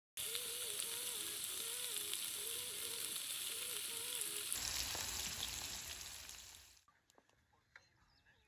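Food sizzling on a hot grill. It starts suddenly, changes about halfway through, and dies away a little before the end.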